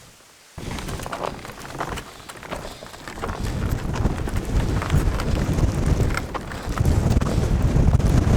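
Snowstorm wind buffeting the microphone, starting suddenly about half a second in and growing stronger a few seconds later, with the irregular crunch of footsteps in snow.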